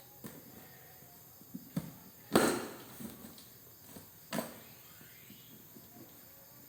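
A shipped parcel being opened by hand: a few small clicks, then two sharp, sudden noises about two and a half and four and a half seconds in.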